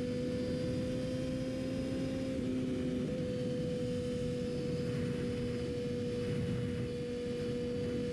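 Yamaha R6's inline-four engine holding steady revs while cruising, a steady hum over a rush of wind. The pitch edges up slightly, then dips a touch about two and a half seconds in.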